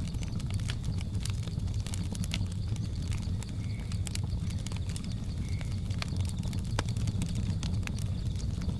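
Wood fire crackling: a steady low rumble of burning with many sharp, irregular pops and snaps. Two brief faint high chirps sound in the middle, part of a jungle ambience.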